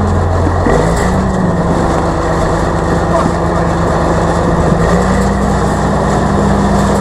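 Tractor engine running steadily, its note shifting slightly about a second in and again about five seconds in.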